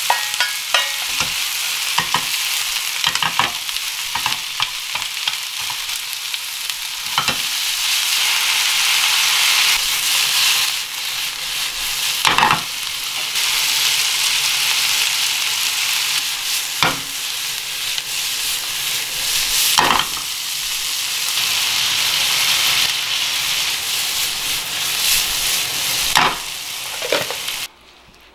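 Pork, onion and cabbage sizzling in a hot nonstick frying pan as they are stir-fried, with a steady high hiss. Short knocks and scrapes of stirring against the pan come through it, most thickly in the first few seconds. The sizzling cuts off just before the end.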